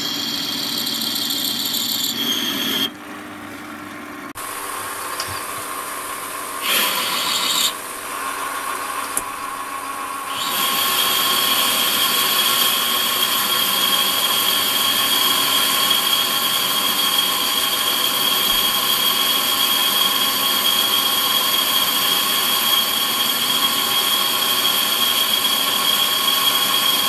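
Warco metal lathe running while a boring bar cuts a 30 mm bore in the tool post block. Quieter for a few seconds early on, then from about ten seconds in the cut runs louder and steady with a high whine.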